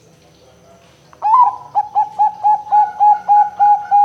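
Zebra dove (perkutut) cooing: about a second in, a loud opening note, then a rapid, even series of short coos at about four a second.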